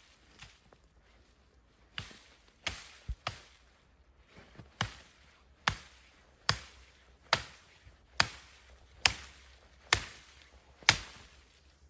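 Wood being chopped: about a dozen sharp chopping strikes, a few irregular ones at first, then an even rhythm of a little more than one stroke a second.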